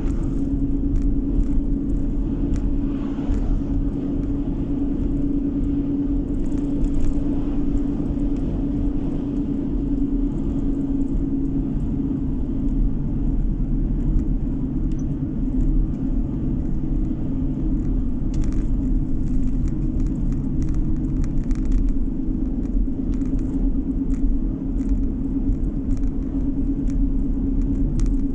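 Steady engine and tyre noise inside a moving car's cabin: a low rumble with a constant hum.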